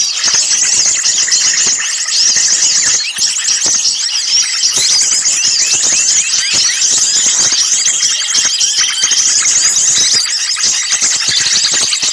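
A dense commotion of many small songbirds calling at once: rapid, overlapping high-pitched chirps and trills with no break. It is the agitated small-bird chorus used as a bird-lure recording to draw birds in.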